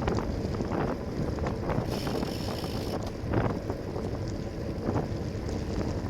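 Wind rushing over the microphone of a bicycle-mounted camera while riding, with a steady low road rumble underneath and a short stretch of higher hiss about two seconds in.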